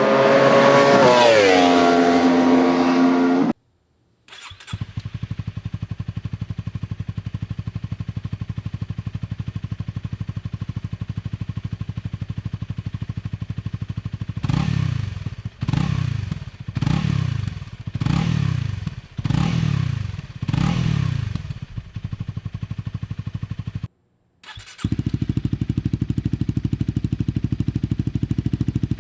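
Honda Rebel 250's single-cylinder engine idling through its stock muffler, with six quick throttle blips in the middle. After a brief cut it idles through an OVER Racing SS Megaphone full exhaust, louder and deeper. It opens with a short rising rev.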